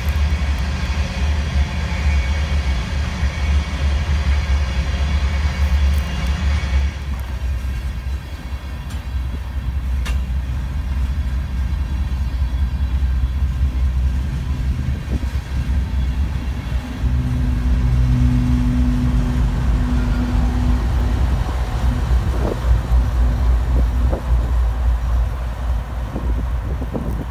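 Freight train of loaded tank cars rolling by with a steady low rumble and wheel-on-rail noise; a high ringing from the wheels fades out after the first several seconds. Past the middle, the drone of a Canadian Pacific GE diesel locomotive joins in as the rear unit pushing the train draws near.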